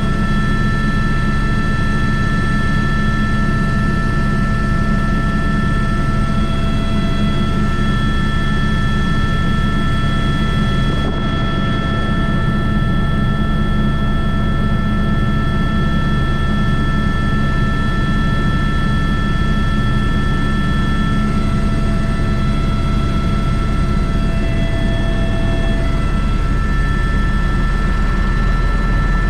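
Airbus H125 (AS350 B3) helicopter in flight: a loud, steady drone from the rotor and single turbine, with a constant high whine over it.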